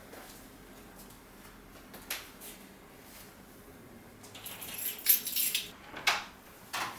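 Quiet room tone, then from about four seconds in a cluster of short rustles and light clinks as things are handled, loudest near the end.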